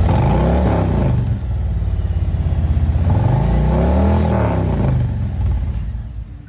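Harley-Davidson Road Glide's Milwaukee-Eight V-twin, freshly fitted with a Khrome Werks full exhaust and Stage 1 tune, revved twice. Each rev rises and falls in pitch: the first in the opening second, the second about four seconds in. The sound fades near the end.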